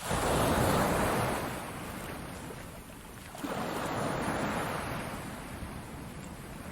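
Ocean waves breaking and washing on the shore: one wave crashes right at the start and rushes out over a couple of seconds, then a second wave rises about three and a half seconds in and slowly fades.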